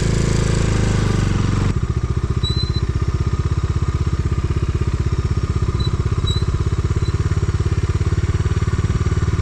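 Motorcycle engine running, then settling into a steady idle with an even, rapid pulse about two seconds in.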